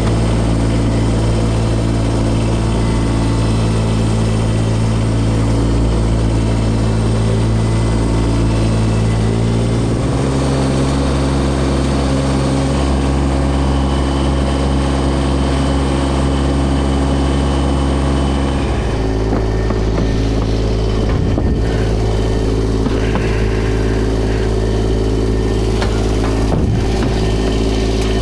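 Engine running steadily, its pitch stepping to a new steady note about ten seconds in and again near nineteen seconds.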